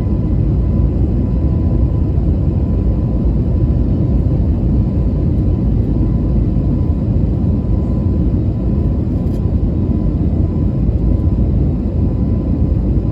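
Airbus A321neo climbing after takeoff, heard from inside the cabin: a steady, loud drone of engine and airflow noise, with a faint steady whine over it.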